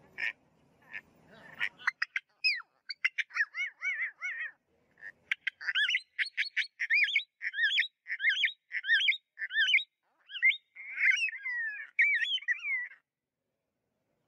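A songbird singing: a run of short, sharp notes, then a long series of repeated slurred whistled notes, about two a second, that stops near the end.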